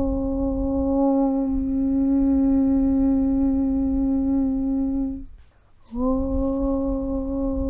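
"Aum" (Om) chant: a voice hums one long, steady note. It breaks off about five seconds in for a short pause, then comes back on the same pitch with a slight slide up into it. A low rumble runs underneath.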